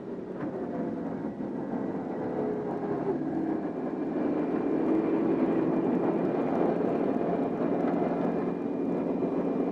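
Steady drone of aircraft engines, fading in over the first second, with a faint whining tone that dips slightly in pitch about three seconds in.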